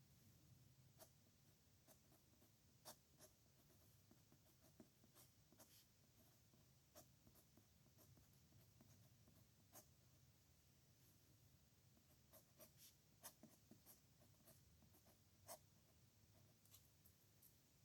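A pen writing on paper: faint nib scratches and light irregular ticks as strokes are drawn and the pen touches down, a few sharper taps standing out.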